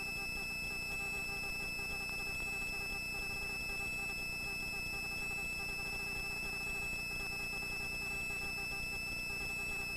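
Helicopter cabin noise heard faintly through the headset intercom: a steady low hum with a high, thin whine held at one pitch.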